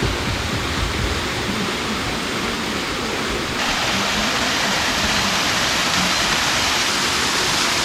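Waterfall: a steady, loud rush of falling water, which grows brighter and a little louder about three and a half seconds in.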